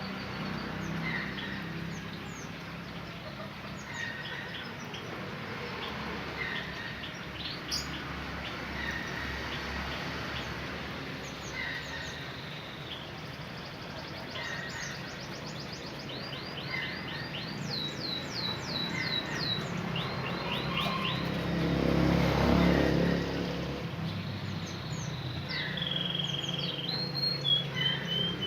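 Canaries chirping and singing in practice, with short high calls every second or two, fast trills of quickly repeated notes about two-thirds of the way through and a held whistled note near the end. A low rush of noise swells and fades briefly after the trills.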